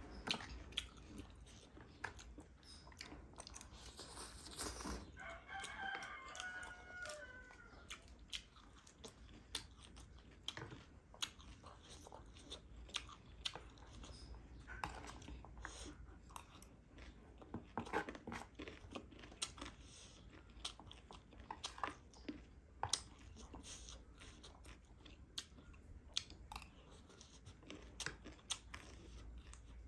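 Close-up eating sounds: crisp crunching of fresh lettuce leaves and chewing of noodles, with wet mouth clicks and the odd tap of a fork on the plate.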